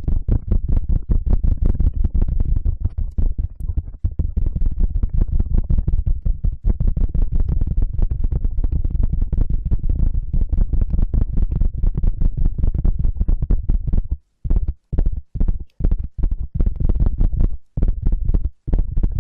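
Fast, loud scratching and rubbing right against an ASMR microphone, as in a hair-wash scalp-scrubbing trigger. The strokes run together at first, then break into short separate bursts with brief gaps over the last few seconds.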